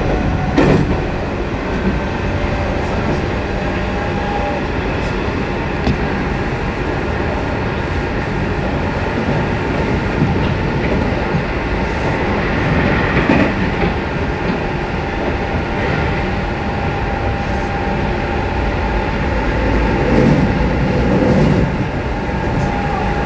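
Ride noise inside a moving Meitetsu electric commuter train: a steady rumble of wheels on rail with a faint thin whine at times and a few sharp clicks from the track.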